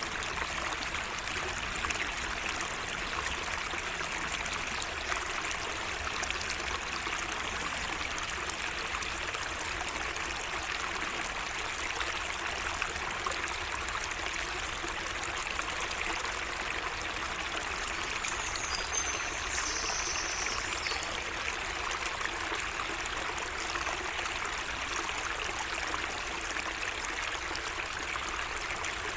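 Water of a small garden stream trickling and running steadily.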